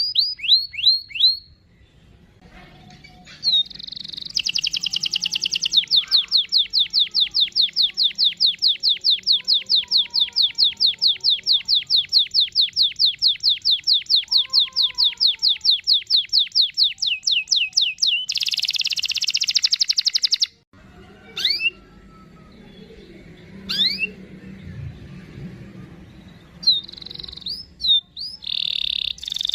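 Domestic canary singing a long roll of rapid, evenly repeated high notes lasting about twelve seconds, then a short buzzy trill, a few scattered rising chirps, and more song near the end.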